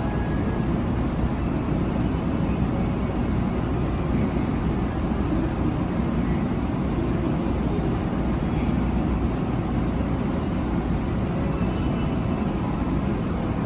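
700 series Shinkansen running at speed: a steady rumble of wheels and running gear on the track, with faint steady motor tones above it.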